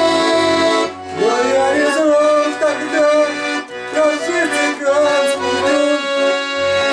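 Accordion playing an instrumental passage of a Russian song: a melody over chords, with steady repeating bass notes underneath.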